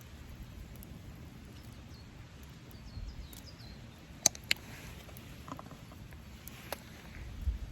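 Wood fire in a fire pit giving off a few sharp pops, two close together about halfway through and one more later, over a quiet outdoor hiss. Faint high chirps, like a small bird, come briefly about a third of the way in.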